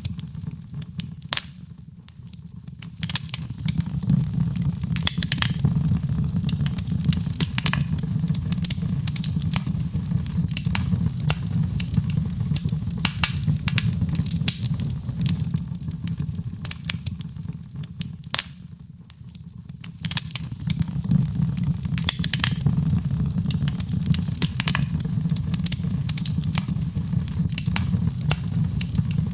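Wood fire in a fireplace crackling and popping, with sharp snaps over a steady low rumble of the flames; the sound fades down briefly twice, about two seconds in and again near nineteen seconds.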